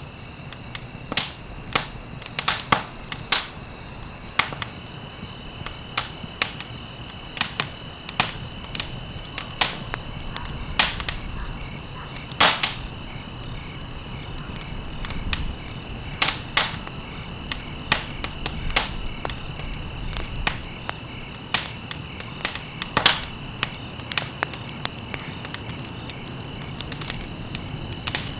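Wood fire crackling, with irregular sharp pops and snaps at a few a second, a couple of them louder than the rest. A steady high-pitched tone runs underneath, over a low rumble.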